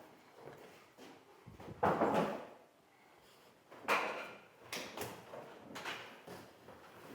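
Handling noises from stretch-ceiling installation work: a loud scraping rustle about two seconds in, then a sharp knock and several smaller clicks and knocks.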